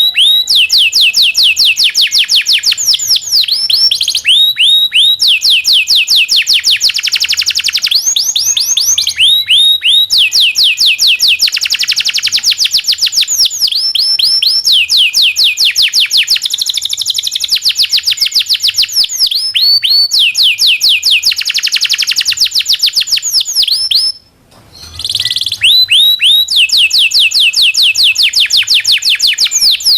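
Domestic canary (local Indonesian canary) singing a long, continuous song of rolls: fast runs of rapidly repeated high falling notes, one run following another, with a brief break about four-fifths of the way through.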